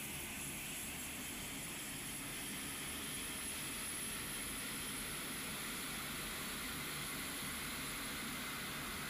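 Lockheed HC-130J's four turboprop engines heard as a faint, steady rushing drone with a thin high whine on top.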